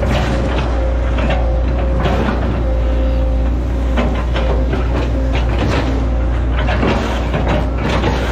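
Hitachi Zaxis 110 excavator's diesel engine running steadily with a deep hum, with irregular knocks and clatter all the way through as the machine works.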